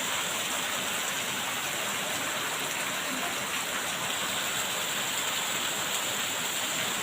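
Steady rain falling: an even hiss of water with no break or change.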